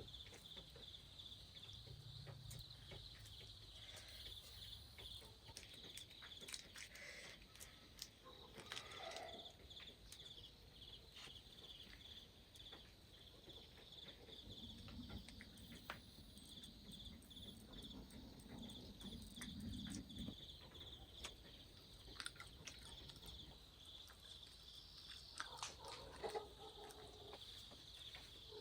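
Near silence: faint rural outdoor ambience, a steady high insect drone with a few scattered faint bird calls.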